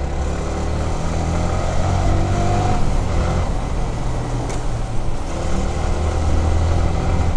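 Yamaha R15 V3's single-cylinder engine running steadily while the bike is ridden, its low note shifting slightly in pitch, over a steady rush of road and wind noise.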